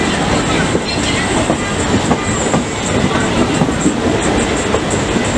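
Express passenger train running along the track: a steady, loud rumble with the clatter of wheels over the rails.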